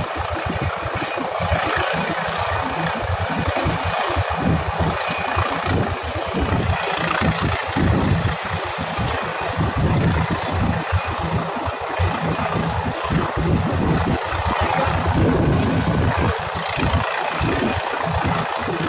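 Helicopter running steadily close by, a constant rotor and engine rush with an irregular, gusting low rumble underneath.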